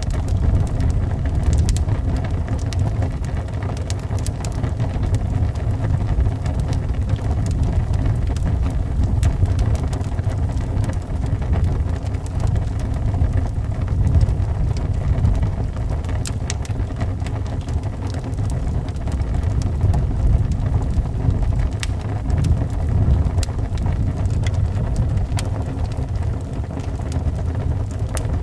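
Wood fire crackling in a fireplace, with sharp pops scattered throughout, over a steady low rumble of wind.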